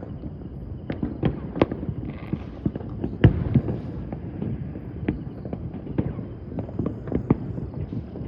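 Fireworks going off all around, with irregular overlapping bangs and crackles over a continuous rumble of distant explosions. The sharpest bang comes a little over three seconds in.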